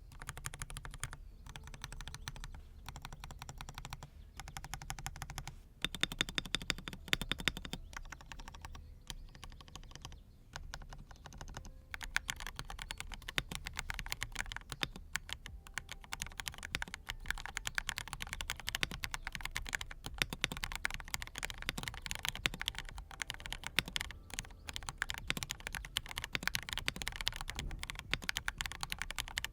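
Typing on a Monstar Gear Aqua67 acrylic mechanical keyboard with fully lubricated low-noise switches. The keystrokes come in short bursts with brief pauses at first, then turn to continuous fast typing from about twelve seconds in.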